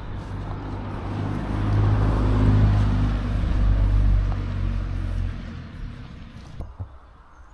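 A motor vehicle passing by: a low rumble that builds to its loudest about two to three seconds in, then fades away.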